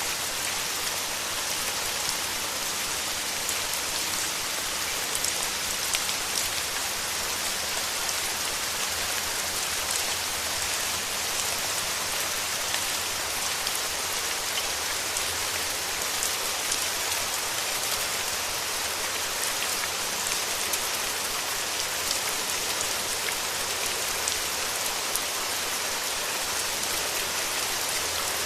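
Steady rain falling, with scattered individual drops ticking a little louder above the constant hiss.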